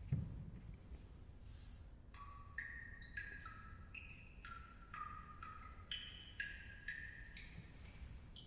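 Faint tune played one note at a time on a bell-like mallet percussion instrument, about two ringing notes a second moving up and down in pitch.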